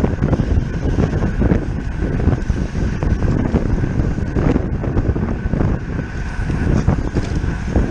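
Wind buffeting a bike-mounted camera's microphone while riding a road bike at race speed, a steady rumble with road noise, and a thin steady high tone underneath.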